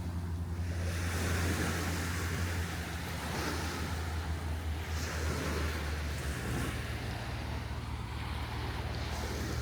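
A motor vehicle's engine running steadily with a low hum that shifts in pitch about six seconds in, over the hiss of surf washing in and wind.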